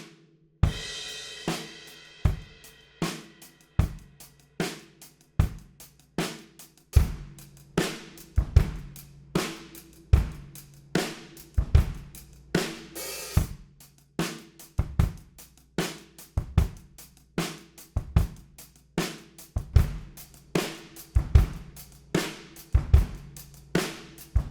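Drum kit playing a steady groove of kick, snare and hi-hat, opening on a crash cymbal, with a quick fill about halfway. These are recorded drum tracks heard both dry and run through outboard compression.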